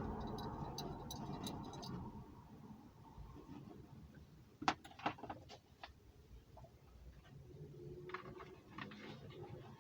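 Light clicks and taps of small parts being handled by hand, with one sharp click about halfway through followed by a few quicker ones, and more faint clicking near the end.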